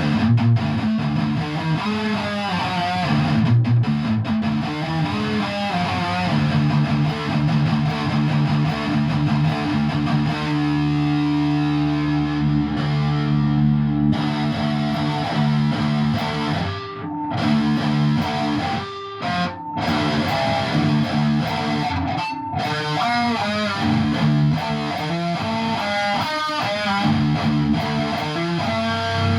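Electric guitar played through distortion and effects, a run of picked notes and chords with a stretch of long held notes about halfway through and a few brief breaks in the sound.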